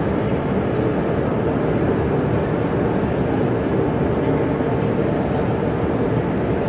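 Steady hubbub of an exhibition hall crowd: many indistinct voices talking at once.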